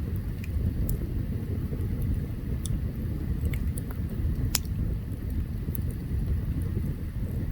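Open campfire burning: a steady low rumble with scattered sharp crackles and pops, the loudest about four and a half seconds in.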